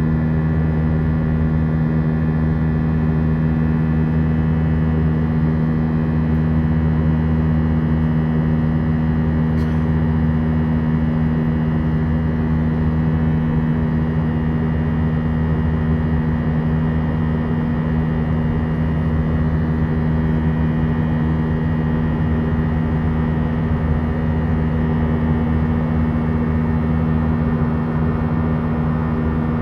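Airbus A319 cabin in flight: a steady drone of the jet engines and rushing airflow, with a constant low hum in it that does not change.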